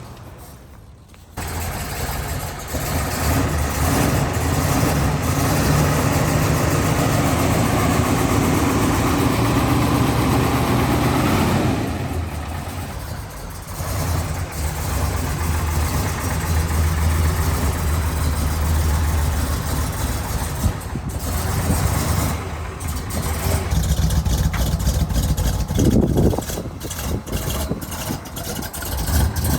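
A car engine running, its speed rising and falling, with short breaks partway through.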